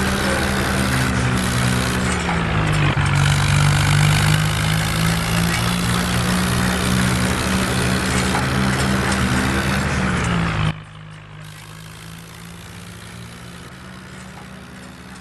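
Swaraj 855 tractor's three-cylinder diesel engine running loud and steady under working load, its pitch sagging about two seconds in and picking back up near ten seconds. About eleven seconds in the sound drops abruptly to a much quieter steady engine sound.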